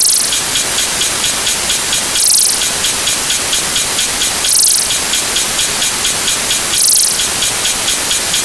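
A dense wash of many overlaid sound effects stacked on top of one another, blurring into a loud, steady rain-like hiss, with a brighter hissing swell about every two and a quarter seconds.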